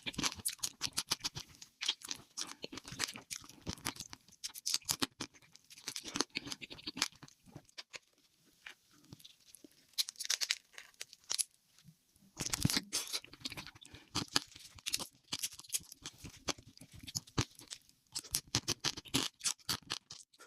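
Close-miked chewing and crunching of crisp food, in dense runs of sharp crackles with a short lull about eight seconds in.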